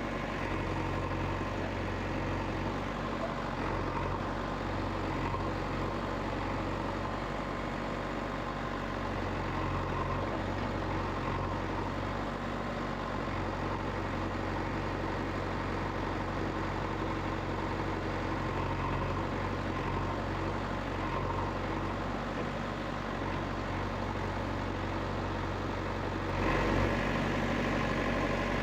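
An engine running steadily at idle, getting a little louder near the end.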